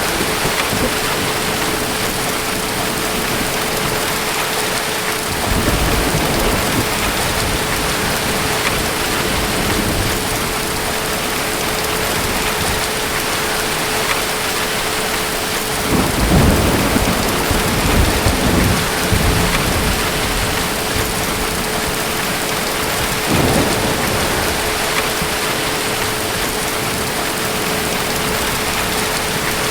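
Steady heavy rain, with rolling rumbles of distant thunder. The strongest rumble comes about sixteen to nineteen seconds in, and lesser ones about five and twenty-three seconds in.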